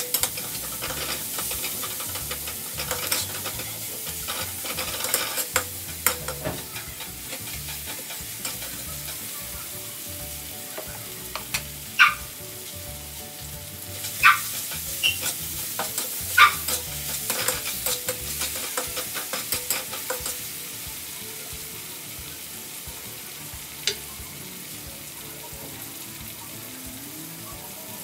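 Chopped vegetables sizzling in hot oil in an aluminium wok, with a metal spatula scraping and knocking against the pan as they are stirred. The stirring clicks thin out about two-thirds of the way through, leaving the steady sizzle.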